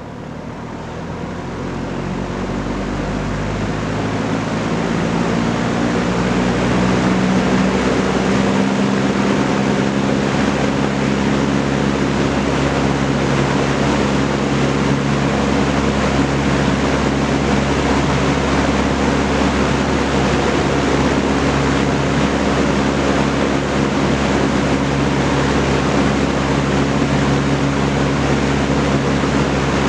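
Vintage Kenmore Roll-A-Matic 20-inch box fan with a four-blade propeller spinning up: the rush of air and the motor hum grow louder over the first several seconds, then run steady.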